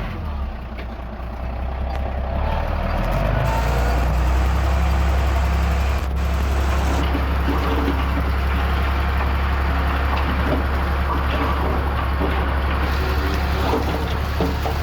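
Diesel engine of heavy earthmoving machinery running steadily, getting louder about three seconds in, with scattered clanks and rattles.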